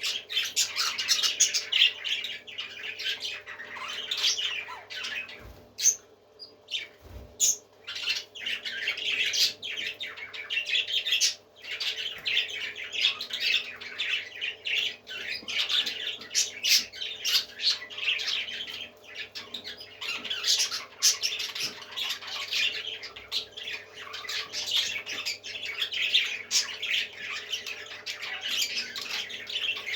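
Parrots squawking and chattering with many harsh calls overlapping, almost without pause, over a faint steady hum.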